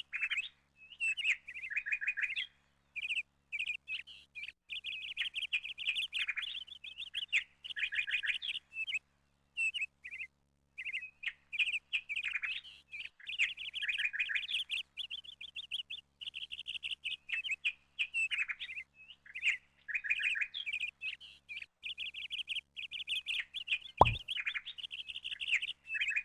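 Small birds chirping and chattering in quick, continuous runs of high notes, broken by short pauses. A single sharp knock sounds near the end.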